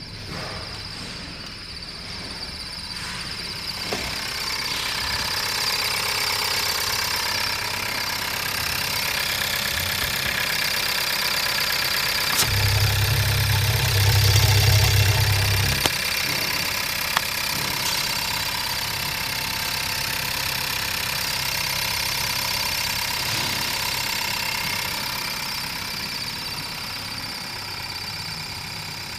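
Skoda Rapid's 1.4 TSI (CZCA) turbocharged four-cylinder petrol engine idling steadily, with a louder, deeper hum for a few seconds about midway.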